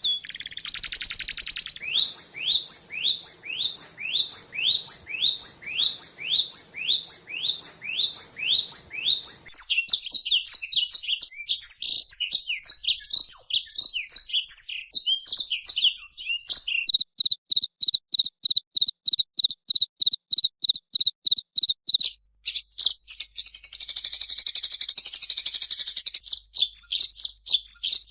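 White-eye (pleci) singing in several changing phrases. It opens with a run of rising whistled sweeps, about two a second. Varied chattering follows, then a fast, even series of high pips, and near the end a dense, rapid trill.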